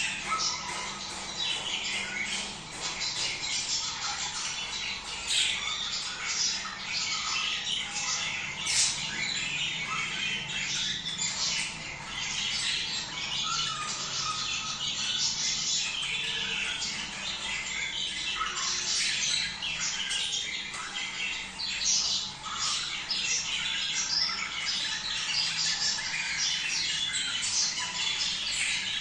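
A flock of budgerigars chattering and squawking, with many short calls overlapping in a continuous stream: the warbling flock chatter of budgies in breeding condition.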